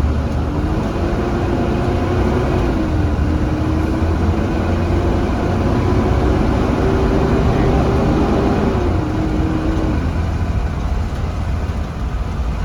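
2017 Blue Bird Vision school bus engine pulling away under load, heard from inside the bus: a steady low rumble under an engine tone that climbs in pitch, dips twice as the transmission shifts up, and fades about ten seconds in.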